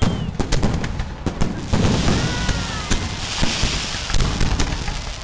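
Fireworks going off in quick succession: many sharp bangs and pops. A crackling hiss rises about three seconds in, and short whistling glides come around the two-second mark.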